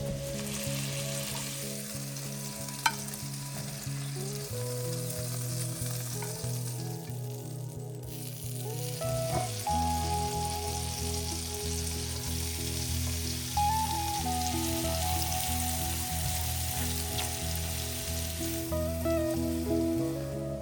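Chicken frying in a hot pan: a steady sizzle, with a sharp click about three seconds in. Soft background music with a slow, stepping bass line plays underneath.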